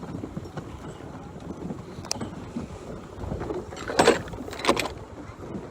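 Wind and water noise aboard a sailing schooner under way. About two seconds in there is a single light click, and around four and five seconds in there are two short, louder bursts of rushing noise.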